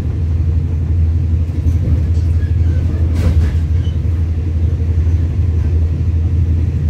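Steady low rumble of a diesel-hauled passenger train running, heard from inside the coach, with a brief rattle about three seconds in.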